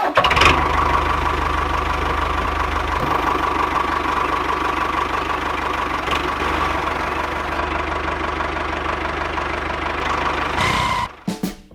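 Mini diesel engine running steadily with a fast, even knock and a steady whine over it, cutting off near the end.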